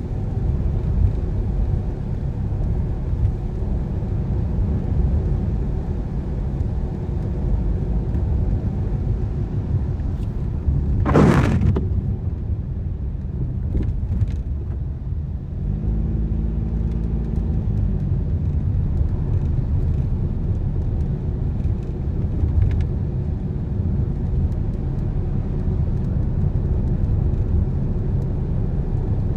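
Car driving on a wet road: a steady low rumble of engine and tyres. A brief loud whoosh comes about eleven seconds in.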